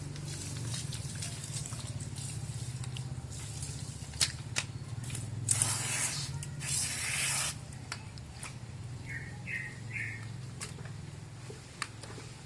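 Water splashing and dripping while a motorcycle is washed by hand, with scattered taps and two brief bursts of spray near the middle, over a steady low hum.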